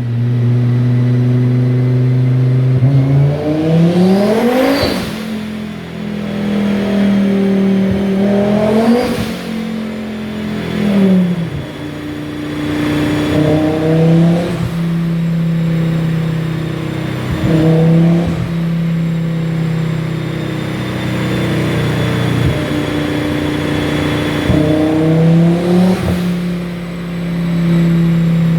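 Turbocharged Volvo B5244S five-cylinder engine in a BMW E36 running at a steady speed, revved up about five times and settling back after each.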